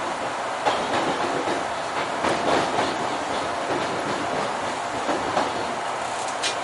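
Electric commuter train running on the rails, a steady rumble with occasional sharp clicks of the wheels passing over rail joints.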